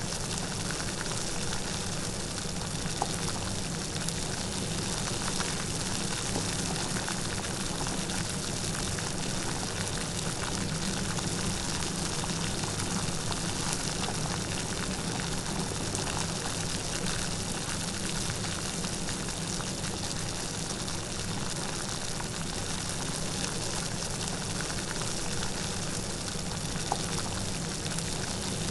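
Light steady rain: an even hiss of falling drops with fine scattered patter and no thunder.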